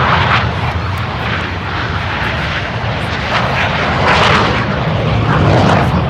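Loud, continuous jet engine roar from Blue Angels F/A-18 jets in the airshow, swelling louder about four seconds in.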